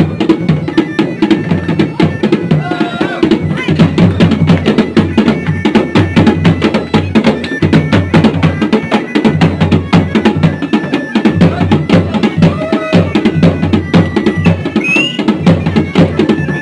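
Garhwali dhol and damau drums playing together in a fast, dense rhythm.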